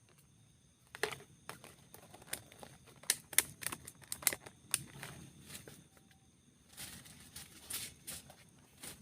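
Close handling and eating sounds: an irregular run of small clicks, knocks and rustles from food, utensils and container being handled. The clicks are densest around the middle and again near the end.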